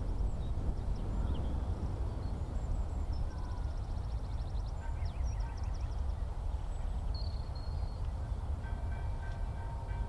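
Open-air ambience: a steady low rumble with faint, scattered high bird chirps and short trills over it. Near the end a faint steady hum in several pitches comes in.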